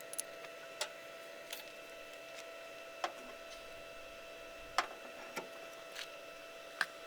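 Scattered light clicks and knocks of metal parts being handled and shifted while a hitch receiver is set into position, about eight over a few seconds. A faint steady whine runs underneath.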